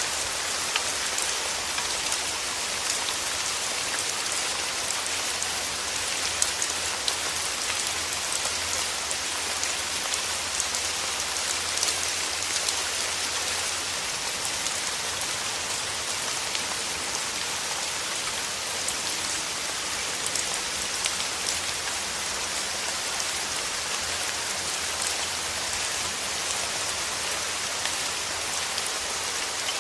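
Steady rain: a dense, even hiss of falling water with many small drop taps scattered through it.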